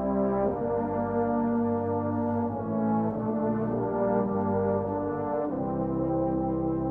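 Brass band playing slow sustained chords, the chord changing every two to three seconds.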